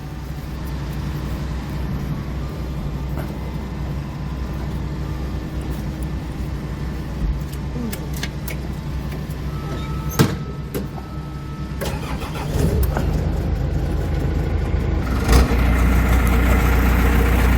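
Diesel engine of a three-drum road roller idling steadily after being started. There is a sharp knock about ten seconds in. The engine gets louder about twelve and a half seconds in and again near the end.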